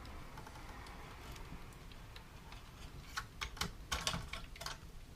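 A quick run of light, sharp clicks and taps, about a dozen over a second and a half in the second half, from small tools and parts being handled during fiddly wiring work, over a faint steady hiss.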